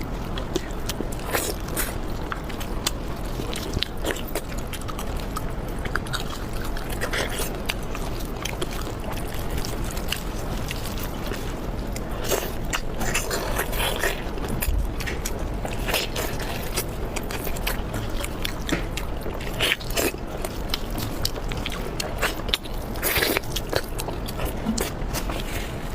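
Close-miked eating sounds: a person biting and chewing, with many small clicks, crunches and scrapes, over a steady low background hum.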